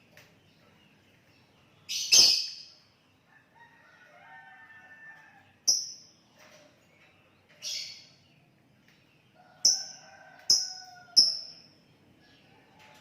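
Sooty-headed bulbul (kutilang) calling: six short, loud, sharp high chirps, the first about two seconds in and the last three close together near the end. Fainter, drawn-out lower calls come twice beneath them.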